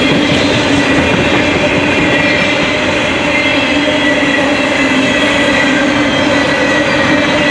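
Coal hopper cars of a freight train rolling steadily past: a loud, even rumble of wheels on rail with a faint steady hum running through it.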